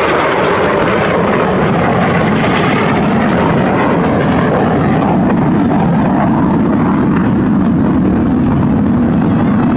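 Loud, steady aircraft noise from an aircraft flying past, its sound sliding lower in pitch over the second half of the pass.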